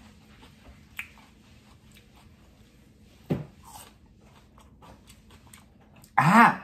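Close-up mouth sounds of someone chewing raw bell pepper, with faint crisp crunches and a couple of louder crunches. About six seconds in, a short, loud voiced sound from the eater breaks in.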